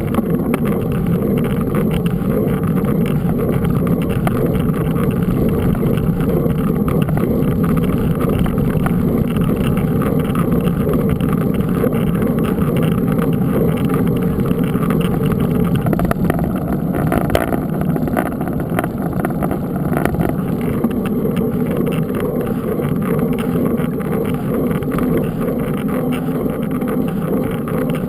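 Steady rushing rumble of a mountain bike in motion: wind buffeting the camera's microphone, with tyre noise underneath.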